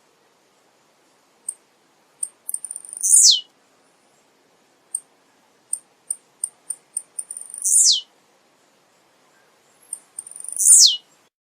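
Male blue-black grassquit (tiziu) singing: three short buzzy songs, each a high note sweeping steeply down, with single high chip notes between them.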